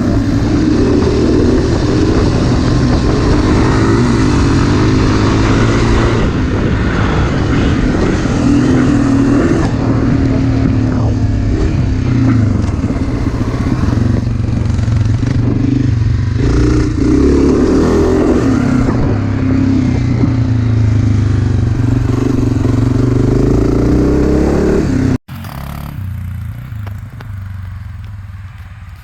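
Dirt bike engine running close by, its pitch rising and falling with the throttle. About 25 seconds in it drops suddenly to a quieter engine sound that fades away.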